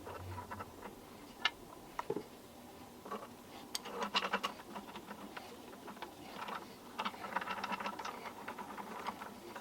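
Scattered light clicks, knocks and clinks of small metal parts and tools being handled, with a denser run of small clicks near the end.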